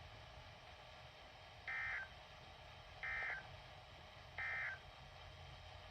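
Emergency Alert System end-of-message data tones from a weather radio tornado warning: three short, identical warbling digital bursts about a second and a half apart, marking the end of the alert.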